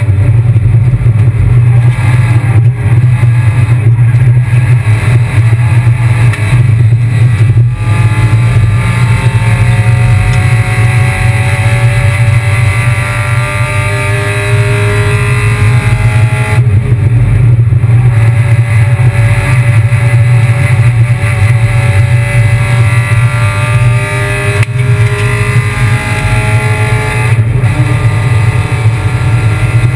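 Kia Picanto race car's engine pulling hard, its pitch climbing slowly for several seconds and falling back sharply twice, over a steady low drone.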